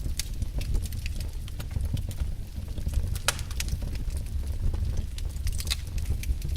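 Wood fire in a fireplace crackling: irregular sharp pops and snaps over a low steady rumble, with one louder pop about three seconds in.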